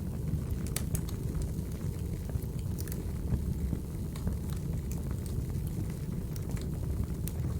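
Crackling wood fire used as ambient ASMR: a steady low rumble with scattered sharp pops and crackles.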